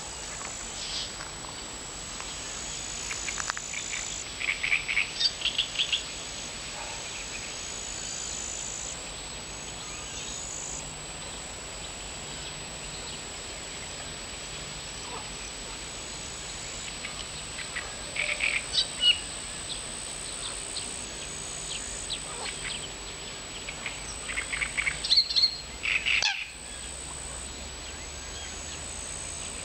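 Nightingale singing outdoors: three phrases of fast, repeated high notes, a few seconds in, past the middle and near the end. The phrases rise over a steady background hiss.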